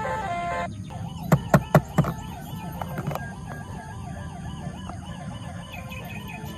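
Electronic siren warbling rapidly up and down in a steady repeating cycle, after a few sharp clicks just after it starts. Music cuts off just before.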